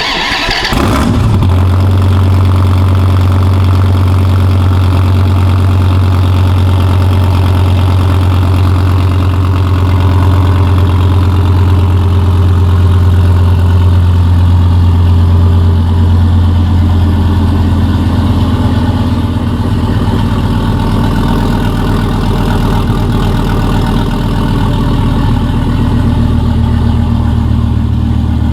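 A car engine starts about a second in and then idles steadily, with a strong low exhaust note.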